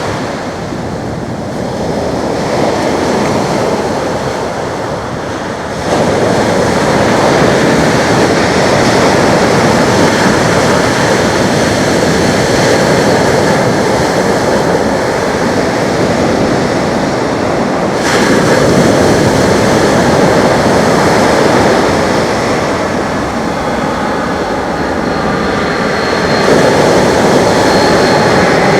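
Loud, steady jet noise from an arriving Boeing 737 MAX 8's CFM LEAP-1B engines, jumping abruptly louder about six seconds in.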